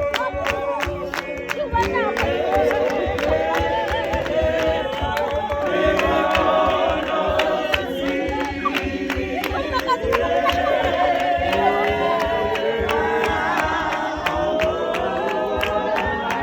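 A group of voices singing together in chorus over a steady rhythm of sharp beats, about three a second.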